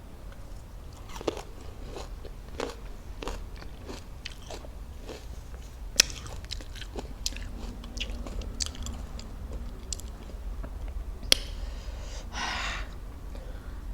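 Crisp raw fruit being bitten and chewed close to the microphone: wet crunches and clicks scattered irregularly, with two sharper cracks. A breath is drawn near the end.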